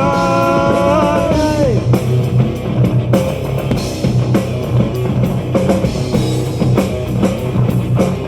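Live metal band performing: a sung note held on the word "life" ends about two seconds in, and the band plays on with distorted guitars and drum kit.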